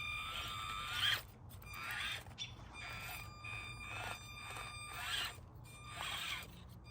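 Axial SCX24 mini RC crawler's small electric motor and gears, run on a 3S battery, whining in repeated bursts of throttle, with a short rising note about a second in.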